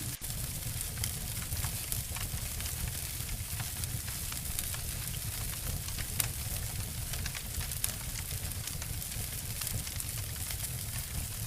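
Wood fire crackling and snapping, with a steady low rumble of burning underneath. One sharper snap stands out about six seconds in.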